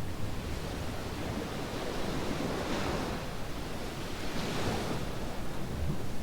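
Ocean waves washing onto a sandy beach, the surf swelling twice in a steady hiss.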